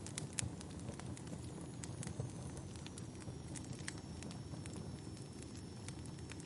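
Wood fire burning in a fireplace: a steady low rumble of flames with irregular sharp crackles and pops, the loudest just after the start. A faint thin high hiss runs through, dropping slightly in pitch.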